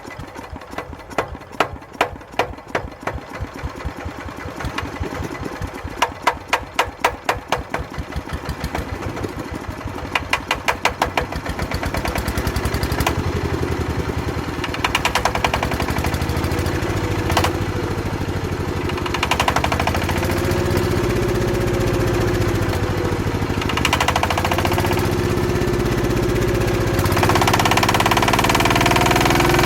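Old Daedong power tiller's single-cylinder diesel engine chugging slowly with distinct, uneven firing beats that quicken and merge into a continuous run about twelve seconds in. It then runs on with a wavering pitch and gets a little louder near the end.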